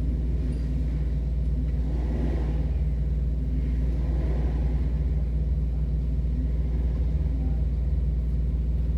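Jeep engine running at a steady speed, a deep, even engine note with no change in pitch, and brief faint scuffing around two and four seconds in.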